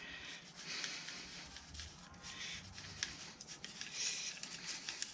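Damp foundry sand being worked into a molding flask: gritty rustling and scraping in uneven patches, with a few light ticks.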